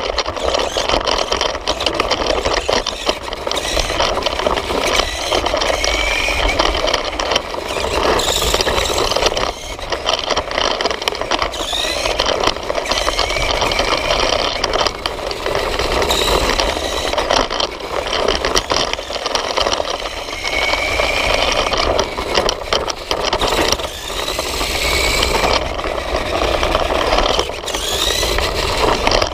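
Nikko electric RC motorcycle running, heard from a camera mounted on the bike: a continuous rattle of the plastic body and drivetrain over the ground, with short rising whines every few seconds.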